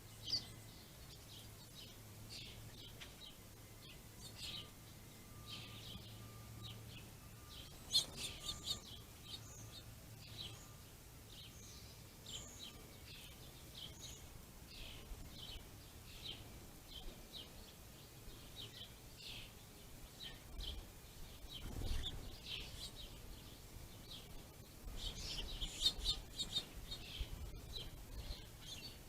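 Small songbirds chirping: many short, high calls one after another, thickest near the end.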